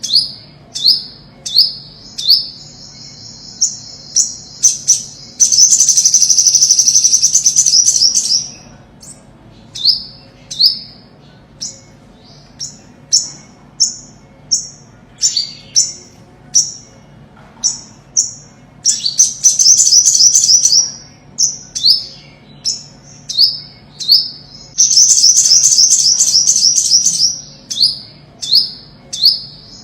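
Olive-backed sunbird singing: a string of short, high, down-slurred chirps, broken three times by a fast, high trill lasting two to three seconds.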